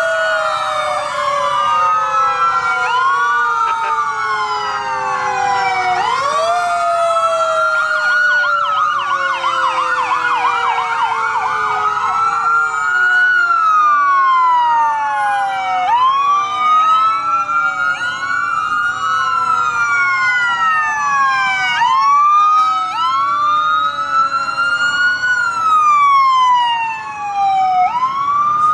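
Several emergency vehicle sirens wailing at once, out of step with each other, each rising and falling every few seconds. Beneath them, lower tones slide slowly downward again and again.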